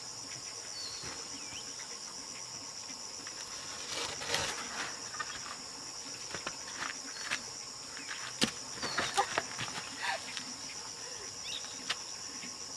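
Steady high-pitched chorus of insects, a fast even pulsing trill. A few sharp knocks and clicks come about four seconds in, and again between eight and ten seconds.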